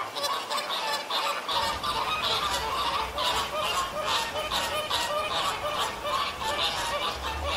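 A flock of flamingos calling: many overlapping goose-like honks, several a second. A low hum comes in about a second and a half in.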